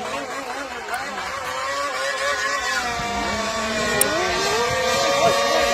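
Small two-stroke engine of a radio-controlled Thai long-tail racing boat running with a steady buzz. Its pitch and loudness climb gradually over the last few seconds as it revs up.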